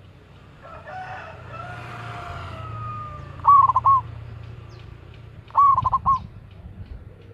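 Zebra dove (perkutut) cooing: two short phrases of quick repeated notes, about two seconds apart. A rooster crows faintly in the background just before them.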